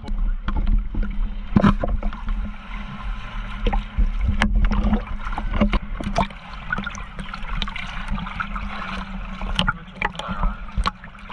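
Seawater sloshing and splashing close around the camera while swimming, with a low rumble and many sharp clicks and knocks.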